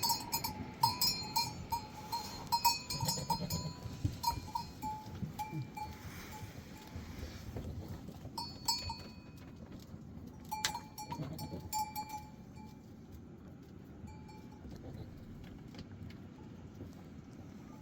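Metal bells on grazing sheep or goats clanking irregularly as the animals move, in bunches through the first four seconds and again around nine and eleven seconds in, then only now and then.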